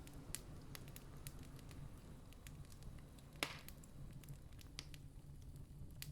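Campfire crackling, with scattered sharp pops and one louder pop about halfway, over a faint low steady rumble.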